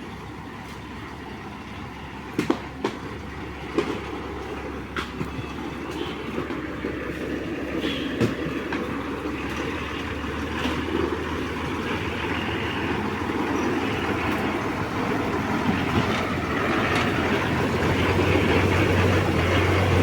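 A heavy truck driving across a wooden plank bridge, the loose planks knocking sharply under its wheels every second or so while its engine rumble grows steadily louder as it comes closer.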